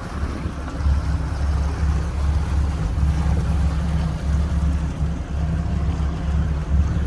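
Cruise boat under way: its engine drones steadily and low, with a constant rush of wind and water over it.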